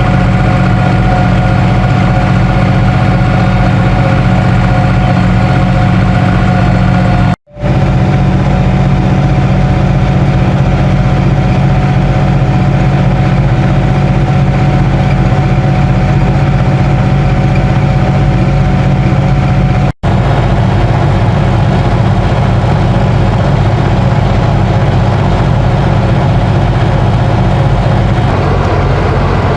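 Ursus 3512 tractor's three-cylinder diesel engine running steadily, loud and close. The sound cuts out for an instant twice.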